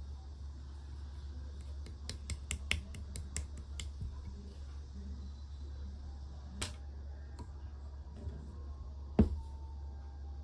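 Clear slime being worked by hand, giving off crisp clicking pops from trapped air. A quick run of about nine clicks comes around two to four seconds in, then two single pops, the last and loudest near the end. A steady low hum runs underneath.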